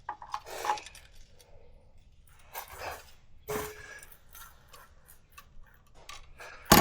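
Scattered light metal clicks and rustles of hand tools as the oil drain bolt is threaded back into a Kawasaki KD80 dirt bike engine, ending in one sharper clank near the end.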